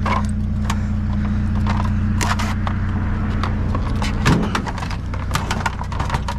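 A vehicle engine idling with a steady low hum, while sharp metallic clicks and clinks from scrap being handled and taken apart sound over it.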